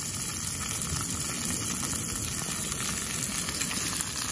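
Fish seasoned with oil sizzling as it cooks: a steady crackling hiss.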